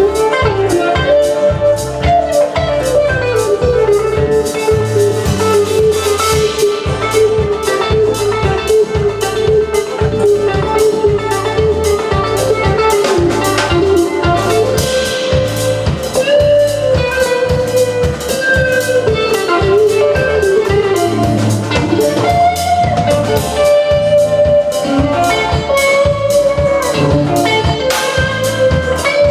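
Live country band playing an instrumental passage: a sliding lead melody over a steady drum beat, bass and guitar.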